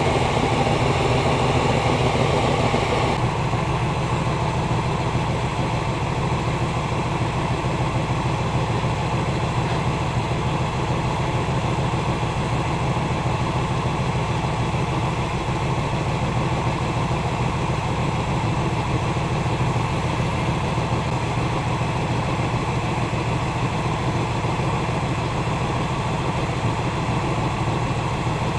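1986 Pontiac Firebird's 305 V8 idling steadily, a low even rumble. It is louder and brighter for the first three seconds, heard close up at the front of the engine by the alternator and belts, then settles as it is heard from farther back in the bay.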